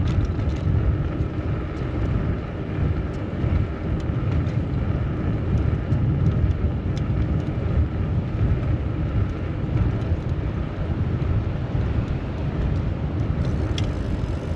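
Steady low rumble of wind on the microphone of a camera riding on a moving bicycle, mixed with traffic noise, with a few faint clicks.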